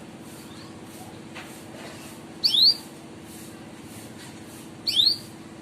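Canary giving short, rising 'cuit' chirp calls, two of them about two and a half seconds apart, over a steady low hum.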